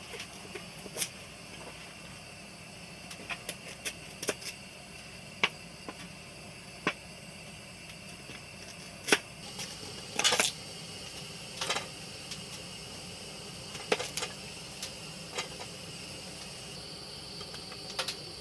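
Scattered sharp clicks and knocks of kitchen utensils during food preparation, roughly one a second, some with a short ring, and a longer clatter about ten seconds in, over a steady low hum.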